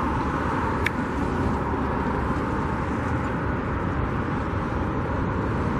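Steady low outdoor rumble with no distinct source, and one brief click about a second in.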